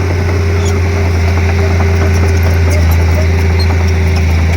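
Komatsu D31P crawler bulldozer's diesel engine running steadily under work, a strong low drone with a fainter steady whine above it that stops about four seconds in, and scattered light clicks and clanks.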